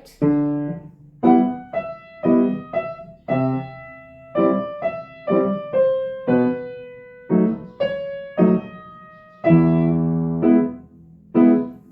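Piano played with both hands: a slow passage of single struck notes and chords that ring and fade, with a fuller chord held for about a second near the end.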